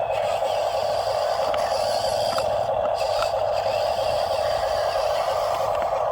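Steady whine of a radio-controlled model's small electric motor and gearbox running without a break, with a few faint clicks and scrapes.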